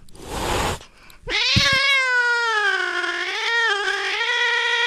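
A cat hissing briefly, then a long, drawn-out wavering yowl that starts about a second in and carries on without a break.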